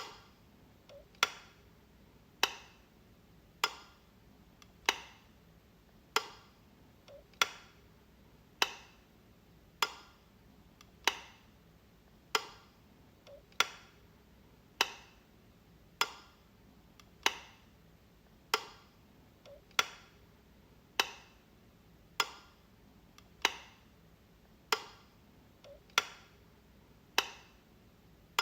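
Light switch clicking, flicked over and over at an even pace of about one sharp click every 1.2 seconds. A much fainter small click comes in between about every six seconds.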